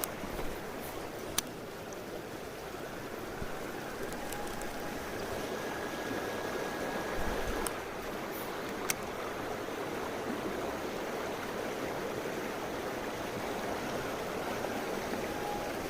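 Mountain stream flowing steadily, with a couple of brief sharp clicks.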